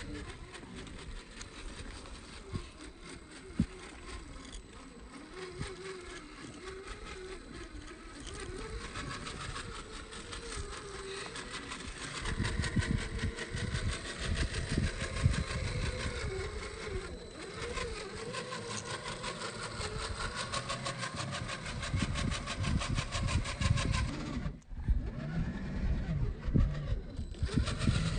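Small electric motor and geared drivetrain of a 1/10-scale RC rock crawler whining, its pitch rising and falling with the throttle. Low rumbling noise joins in and grows louder about twelve seconds in.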